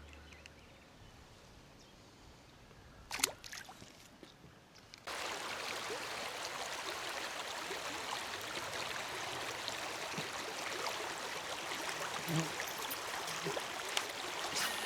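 Near silence with a single knock about three seconds in, then, starting abruptly about five seconds in, the steady rush of flowing creek water with a few faint clicks.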